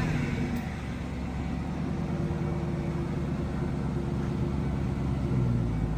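1996 Ford Mustang SVT Cobra's 4.6-liter V8 idling steadily.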